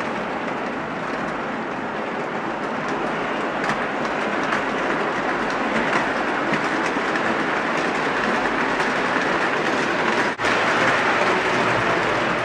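O-gauge model train, a Williams EMD E7 pulling eight passenger cars, rolling past on three-rail track: a steady rumble and clatter of wheels on the rails. The sound breaks off for an instant about ten seconds in and comes back a little louder.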